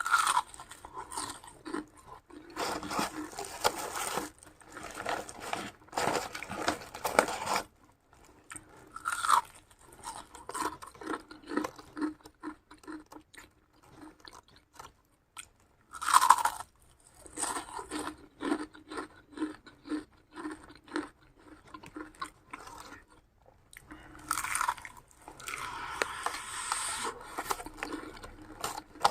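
A person eating crunchy food close to the microphone: loud crunching bites come every several seconds, and between them run stretches of steady, rhythmic chewing.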